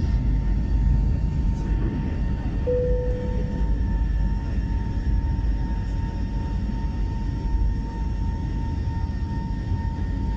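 Jet airliner cabin noise: a steady low engine rumble with a thin steady whine over it. A single short tone sounds once and fades, about a quarter of the way in.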